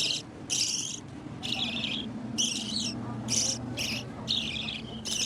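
A parrot giving a run of short, harsh squawks, about two a second.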